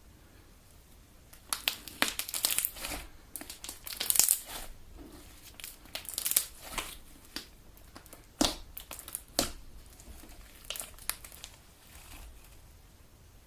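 Homemade Elmer's glue galaxy slime being squeezed and kneaded by hand, giving bursts of sticky crackling pops and squelches in clusters, then quieting near the end.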